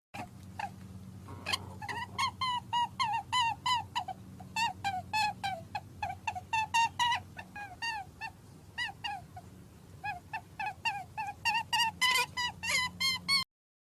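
Rapid series of short, high squeaky animal calls, several a second, each rising and falling in pitch, over a low steady hum.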